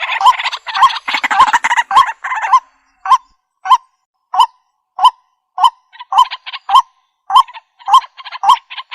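Waterhen (jal murgi) calling: a short hooked note repeated about every two-thirds of a second. For the first couple of seconds the notes sit over dense raspy chattering, then they come alone with brief gaps between.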